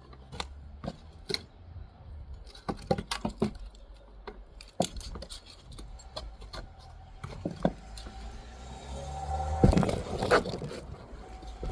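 Masonry hand-tool work: a steel trowel knocking and scraping against brick and mortar, a run of sharp knocks and clinks with a louder stretch of scraping about ten seconds in.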